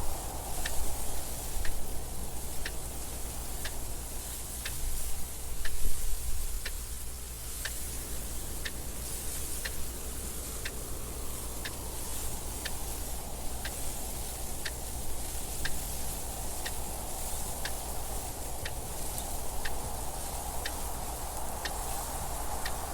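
Clock ticking evenly, about once a second, over steady wind noise that swells louder a couple of times early on.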